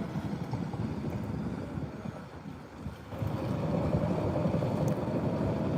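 Wind buffeting the microphone over the low drone of a large motor yacht's engines. About three seconds in, a steady hum comes up and the sound grows louder.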